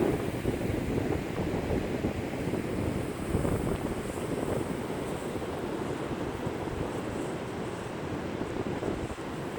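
Loud, gusty wind buffeting the microphone, a heavy low rumble that rises and falls, with surf on the beach mixed into it.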